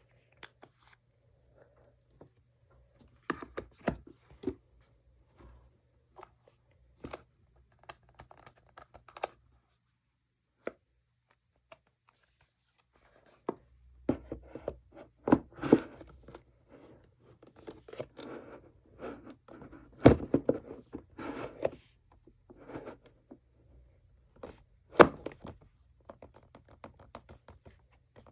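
ASMR tapping and scratching on makeup products and their packaging. At first there are scattered light taps and clicks, then a denser stretch of scratching and rustling handling about halfway through, with a couple of sharp knocks near the end.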